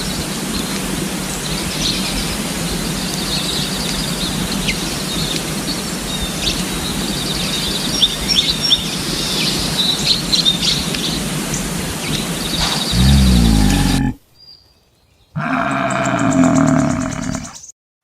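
Small birds chirping and trilling over a steady outdoor background noise. About thirteen seconds in this gives way to a brief low, pitched sound, a pause, and then a different buzzy, pitched sound, in the manner of separate clips cut together.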